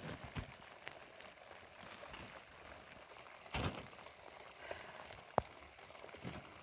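Light rain with scattered drips and taps, a louder short thump about three and a half seconds in and a sharp tick a couple of seconds later.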